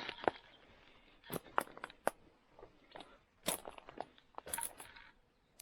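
Footsteps crunching over dry ground litter, in irregular clusters of sharp crackles about a second and a half in, around three and a half seconds, and just before five seconds.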